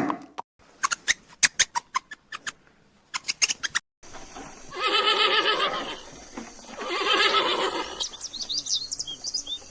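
A run of sharp clicks, then a horse whinnying twice in long, quavering calls, followed near the end by quick high bird chirps.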